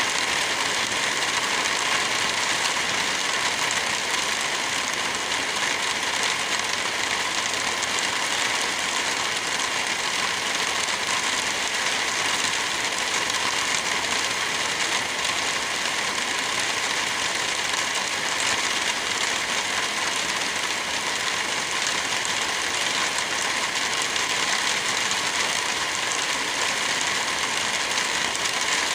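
Steady rain falling: an even, unbroken hiss with no thunderclap.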